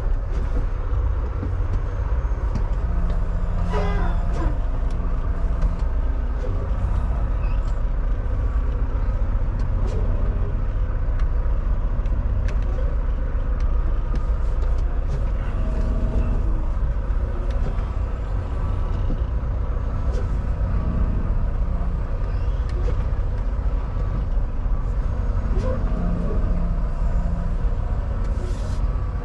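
Semi truck's diesel engine running steadily at low speed while backing into a tight parking spot, with a few short clicks and brief hisses over the rumble.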